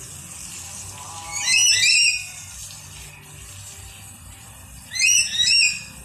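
A bird calling in two bursts about three and a half seconds apart, each a quick run of several high, upward-sliding notes.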